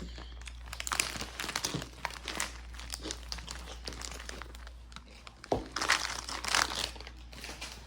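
Crinkling and rustling of something being handled, in many short irregular bursts, louder about six seconds in.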